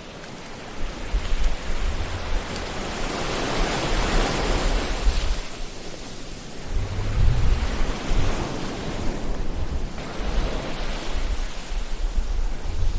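Ocean waves washing in, a continuous rush of surf with a low rumble that swells and eases several times.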